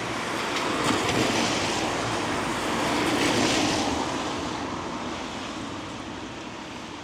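Vehicle tyres hissing on a wet road as traffic passes, swelling to a peak about three seconds in and fading away.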